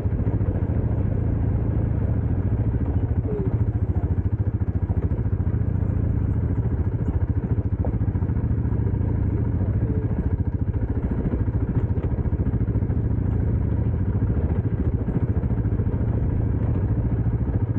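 Dirt bike engine running at a steady speed, a fast even pulse with no revving up or down.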